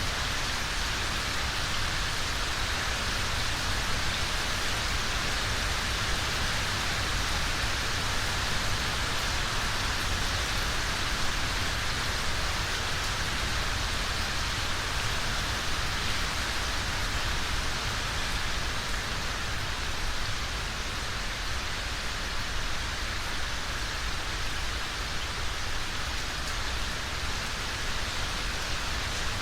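Steady rainfall, an even hiss of rain falling on surfaces with no breaks or thunder.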